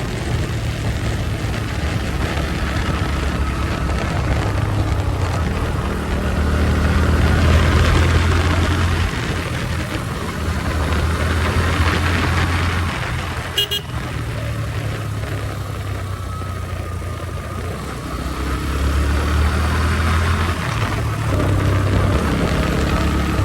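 Motorcycle engine running on the move, with wind rushing over the helmet microphone and the engine note shifting as speed changes. A short horn beep comes about halfway through.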